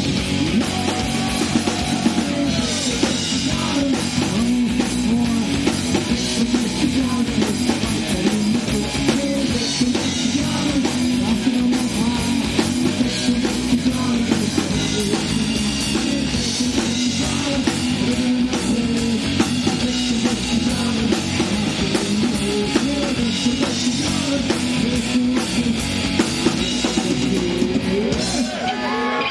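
A rock band playing live: electric guitars and a drum kit in a continuous instrumental passage of the song.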